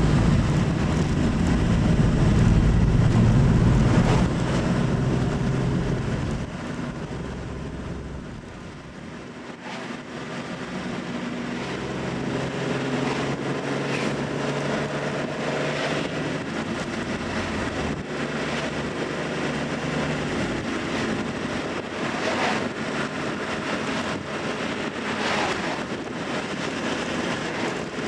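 Classic Nissan Skyline's engine and exhaust while driving on the road. The rumble is loud for the first six seconds or so, then drops to a quieter steady drone, and the engine note rises a little as it picks up speed.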